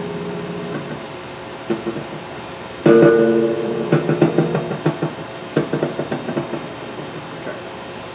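Guitar strings plucked one at a time while being tuned: a held note dies away, then single plucks, a louder one about three seconds in, followed by a quicker run of short plucked notes.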